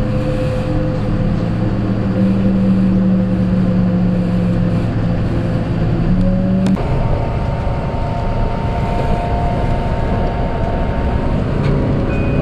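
Kintetsu limited express train running, heard from inside the passenger car: a steady rumble with a low motor hum. The sound changes abruptly about halfway through, after which a higher steady whine is heard alongside the rumble.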